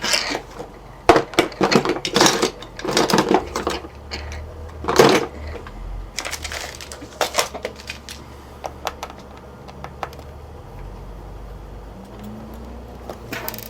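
Small metal hand tools clinking and clattering, a string of irregular clicks and clanks as a screwdriver is hunted for among them. The clatter is busiest in the first half and thins to scattered light taps later.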